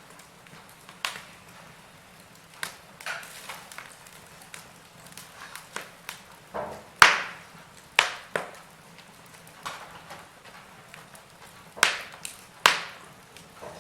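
Wood fire burning in a fireplace, crackling with irregular sharp pops. A louder pop comes about halfway through, and two more come near the end.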